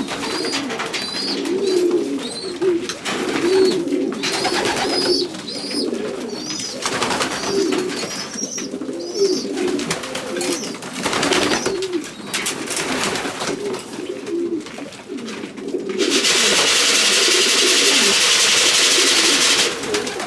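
Racing pigeons cooing continuously in a small loft, with high thin cheeping notes repeating among the coos. Near the end a loud steady hiss comes in for about four seconds and cuts off suddenly.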